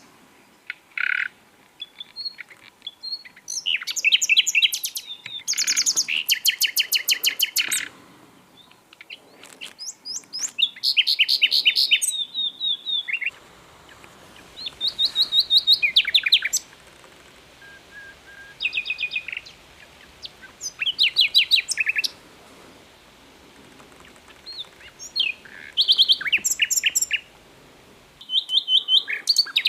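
Common nightingale singing: a run of short phrases, each a fast series of repeated notes, separated by pauses of a second or two.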